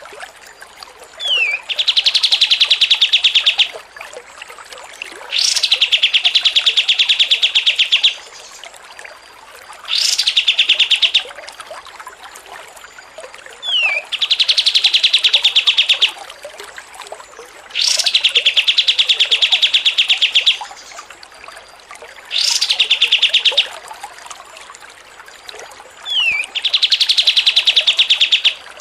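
Songbird chattering in fast, even trills, a rapid 'ngocor receh' song, seven times. Each trill lasts one to three seconds and some open with a quick falling or rising note. The phrases come back about every four seconds.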